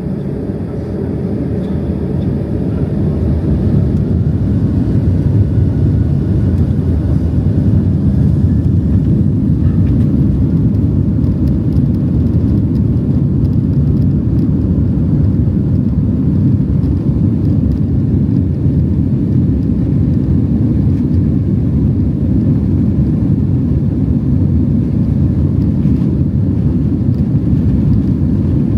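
Boeing 767-300 airliner's jet engines and airframe heard from inside the cabin during takeoff: a deep rumble that grows louder over the first few seconds as thrust comes up, then holds steady and loud.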